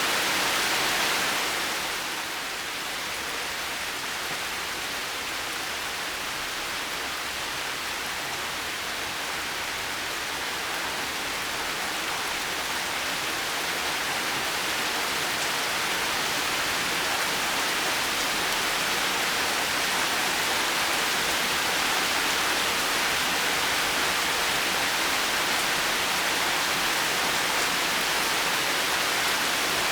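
Steady heavy rain falling, a wash of hiss with no single drops standing out; it eases slightly about two seconds in and slowly builds back up over the following seconds.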